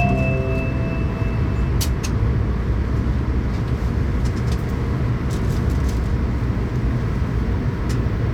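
Shinkansen train running, heard from inside the passenger car as a steady low rumble. The last tones of the onboard chime fade out in the first second or so, and a few sharp clicks come about two seconds in and again near the end.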